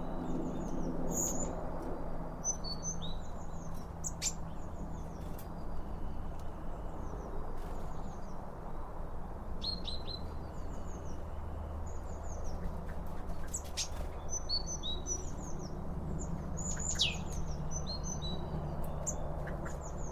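Small songbirds chirping, with many short, high, down-slurred notes in quick runs, over a steady low rumble.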